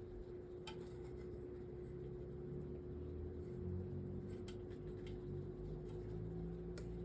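A few sharp, scattered clicks of a screw and metal fan parts being handled during reassembly, over a steady low hum. A low rumble swells in the second half.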